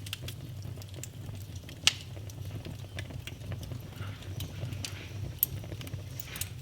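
Wood fire in a fireplace crackling: scattered small snaps and pops over a low steady rumble. Two louder pops stand out, about two seconds in and again about five and a half seconds in.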